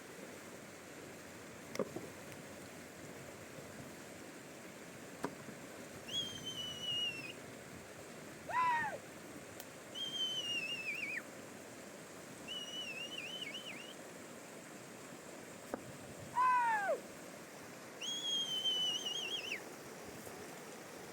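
Bird calls over a steady rush of river water: four high, wavering whistled calls and two lower, falling calls, which are the loudest sounds.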